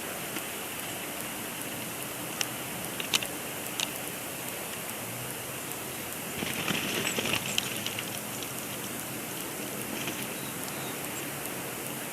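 Steady hiss of a snowstorm falling on the nest site, with a few light ticks and a louder stretch of rustling a little past the middle.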